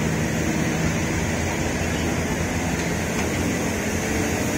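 Steady running noise of passenger trains pulling out side by side: coaches and wheels rumbling and rattling on the track, heard through an open coach doorway.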